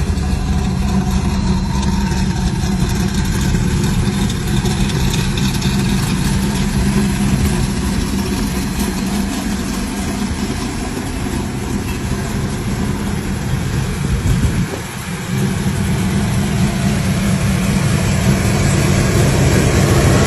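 The engine of a 1970 Plymouth 'Cuda AAR replica idling steadily, with a brief drop about fifteen seconds in and the level rising a little near the end.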